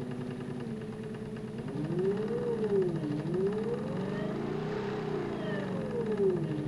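Haswig Protruar 1.0 12 V brushless trolling motor running, its whine rising and falling in pitch twice as the speed is turned up and down. Under the whine is a fast ticking, which the owner does not think is right for a brand-new motor.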